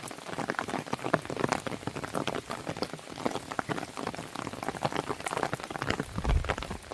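Rain pattering on a window mixed with a wood fire crackling: a dense, irregular stream of small ticks and pops. A low rumble comes in near the end.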